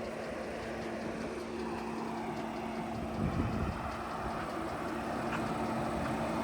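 A car engine idling steadily, with a constant low hum under a bed of outdoor noise.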